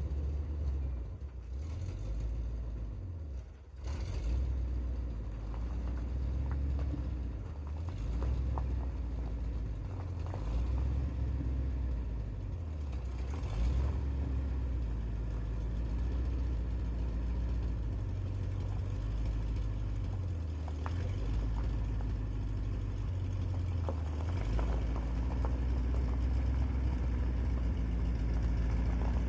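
Old International boom truck's carbureted engine running as the truck is moved, a low rumble whose pitch rises and falls repeatedly with engine speed, briefly dropping in level a few seconds in.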